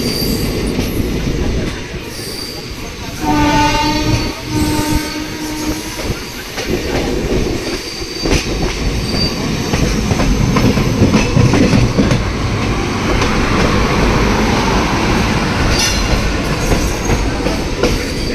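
Passenger train running along the tracks, heard from its open door: a steady rumble of wheels on rails with clicks over rail joints. About three seconds in, a train horn sounds twice, a short blast then a longer one, together about two and a half seconds.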